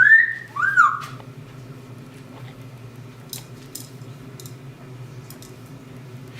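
A pet parrot whistling two short notes in the first second, each rising and then falling in pitch. A few faint clicks follow.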